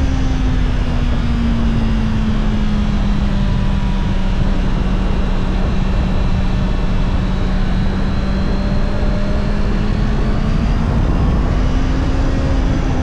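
Honda CBR650R's stock inline-four engine running under way, its note easing down over the first few seconds, holding steady, then rising a little near the end, over a steady rush of wind and road noise.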